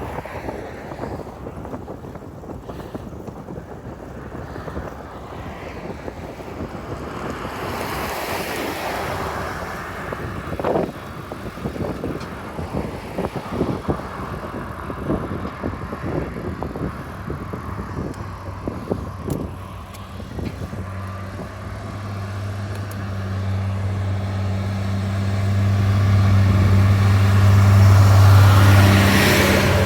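Wind buffeting the microphone during a ride, with scattered knocks. In the last third a motor vehicle's low steady engine hum grows louder and is loudest near the end as it draws close.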